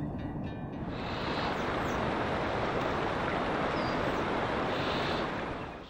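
Steady rushing noise of flowing water, with a few faint high bird chirps over it; it takes over from plucked-string music about a second in and cuts off suddenly near the end.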